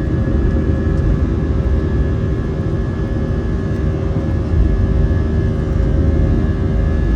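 Airbus A320's jet engines running steadily during takeoff, heard from inside the cabin as a loud, even low rumble with a few steady tones held over it.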